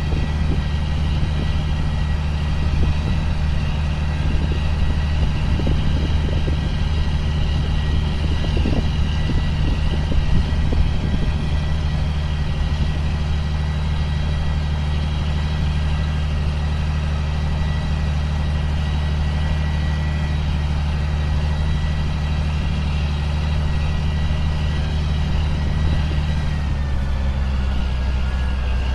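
Diesel engine of a 2005 John Deere sprayer running steadily under a faint high steady whine. There is some light rattling in the first ten seconds, and the engine note shifts slightly near the end.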